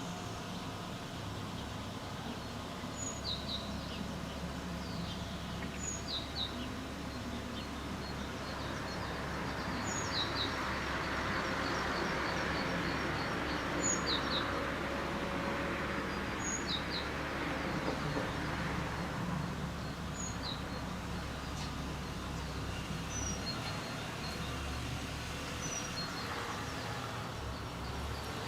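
A small bird repeating a short, high call every few seconds over steady background traffic noise, which swells for several seconds as a vehicle passes in the middle.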